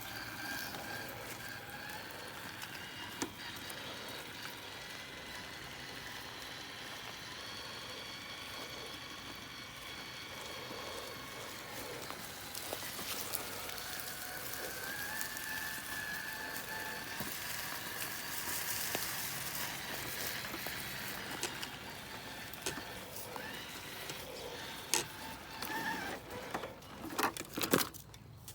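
Traxxas TRX-4 RC crawler's electric motor and gearing whining as it crawls a trail, the pitch rising and falling with throttle. Scattered clicks, then a cluster of sharp knocks and clatter near the end.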